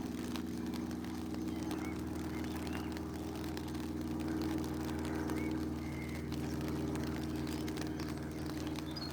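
Steady low mechanical hum, like an engine running at a constant speed, with a few faint bird chirps.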